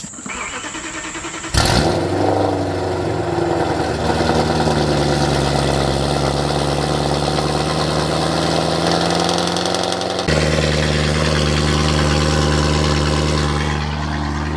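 BMW E92 M3's V8 with a straight-piped exhaust cold-starting. The starter cranks for about a second and a half, then the engine catches with a loud flare and settles into a steady, loud cold idle. About ten seconds in the idle note shifts abruptly.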